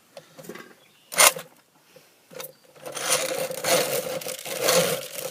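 Bicycle-powered grain grinder turning, its metal grinding plates scraping and rattling with a steady hum underneath for about two seconds near the end, after a single sharp knock about a second in.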